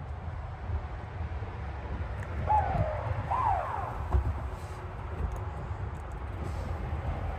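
Steady low rumble of a 2024 Cadillac Escalade on the move. About two and a half seconds in, two short swooping notes, one falling and one rising then falling, sound over it.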